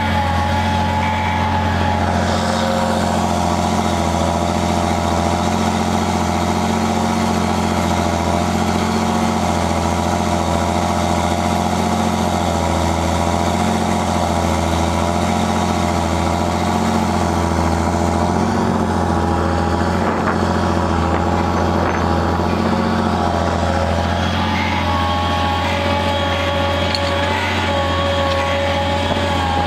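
A 7930 tractor's diesel engine running steadily under load while ploughing, with a deep growl from its new exhaust. The engine pitch shifts slightly about two-thirds of the way through.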